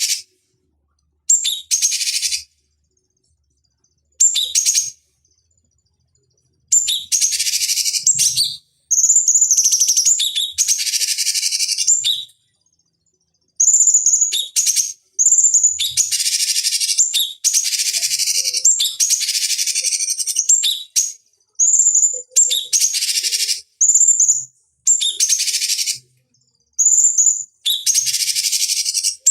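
Cucak cungkok singing in repeated phrases of one to three seconds, each opening with a clear high note and running into a rapid scratchy chatter, with short silent gaps between phrases. The phrases come closer together after about seven seconds in.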